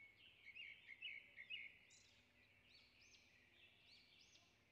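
Near silence, with faint, short, high chirps like distant small birds, clustered in the first couple of seconds and scattered after.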